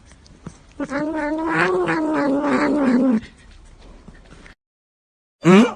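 A cat's long, drawn-out yowl, held for about two seconds and dropping in pitch as it ends.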